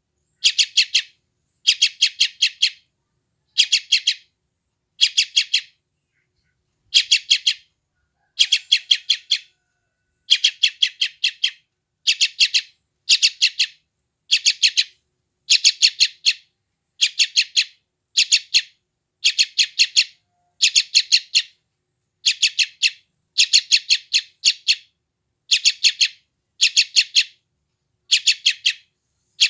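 Yellow-vented bulbul chicks giving hungry begging calls: short bursts of several rapid high chirps, repeated about every second with silent gaps between.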